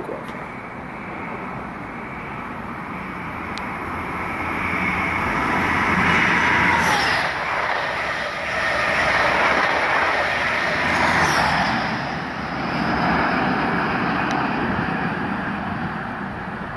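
InterCity 125 (HST) diesel high-speed train passing through at speed. Its power cars and coaches grow louder as it approaches, stay loud for several seconds as it goes by, then fade as it draws away.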